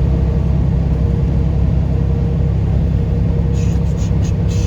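Steady low rumble of a truck's engine and road noise heard inside the cab while driving at highway speed, with a faint steady hum. A few short ticks come near the end.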